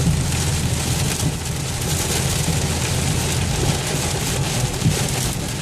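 Heavy rain pelting a car, over the steady low hum of its running engine and road noise, heard from inside the cabin.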